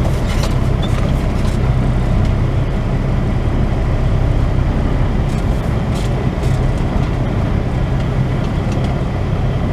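Semi truck's diesel engine running at low speed as the truck creeps along, a steady low hum.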